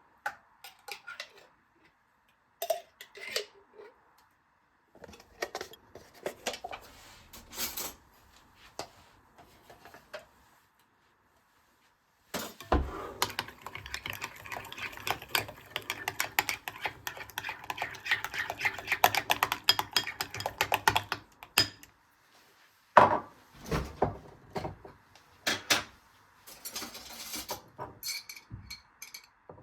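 Kitchen utensils and dishes clinking and knocking, with a stretch of fast, continuous clattering lasting about nine seconds in the middle.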